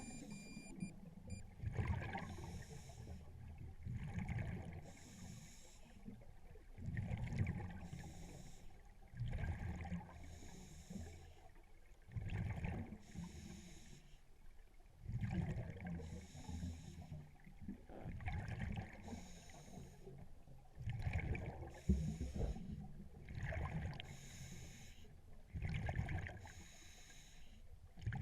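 Scuba diver breathing through a regulator underwater: a hiss on each inhale, then a rumble of exhaust bubbles on each exhale, repeating every two to three seconds.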